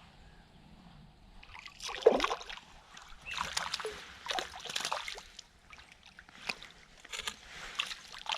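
Water splashing and sloshing against a kayak in a series of irregular strokes, the loudest about two seconds in.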